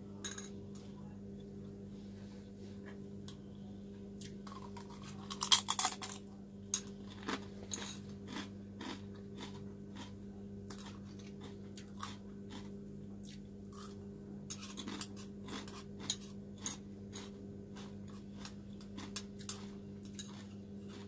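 Close-up mouth sounds of eating: chewing and crunching with many small sharp clicks, and one louder slurping burst about five seconds in. A steady low hum runs underneath.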